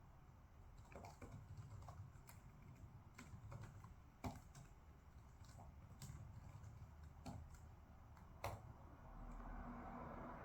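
Faint, irregular clicks and taps of desk work, spaced roughly a second or so apart, with two sharper taps about four and eight seconds in. A low steady hum comes up near the end.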